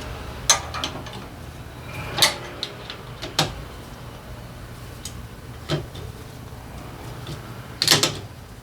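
Scattered sharp metallic clicks and knocks of tools and engine parts being handled during motorcycle engine work, a cluster of them near the end, over a faint low steady hum.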